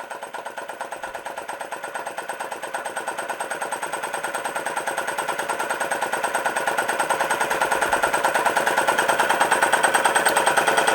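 Chinese-made model flame licker (vacuum) engine running, with a fast, even clicking beat that grows steadily louder.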